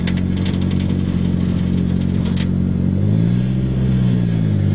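Honda B20 four-cylinder engine swapped into an Acura Integra idling steadily, then given a short blip of the throttle about three seconds in, its note rising and falling back.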